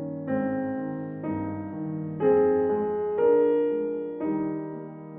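Solo piano playing slow chords, a new chord about once a second, each left to ring and fade.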